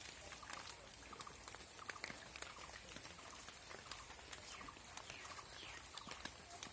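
Light rain dripping and pattering in irregular small ticks, with faint short chirps and a few falling calls from small animals.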